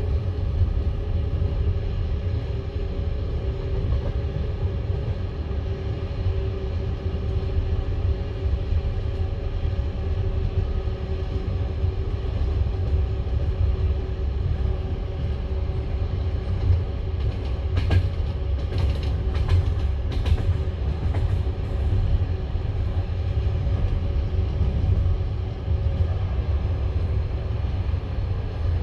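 Passenger train carriage running along the track, heard from inside the car: steady rumble of the wheels on the rails with a low hum, and a run of sharp clicks about two-thirds of the way through.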